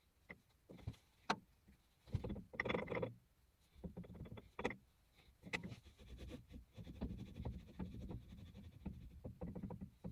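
Handling noises: a run of irregular clicks, knocks and short scraping or rubbing sounds, with no motor running.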